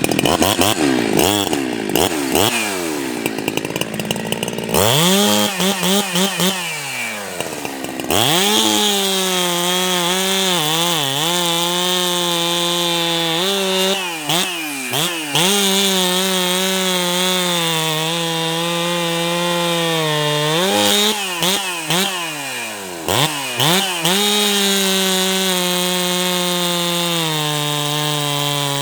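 Ported Jonsered 2165 two-stroke chainsaw running at high revs while cutting through wood. The engine is uneven for the first few seconds, then holds a steady high pitch, with the revs dipping and recovering several times in the cut.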